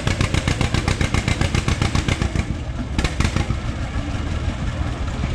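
John Deere G's two-cylinder engine pulling hard under load, its exhaust popping in a fast, even beat. The popping softens about two and a half seconds in.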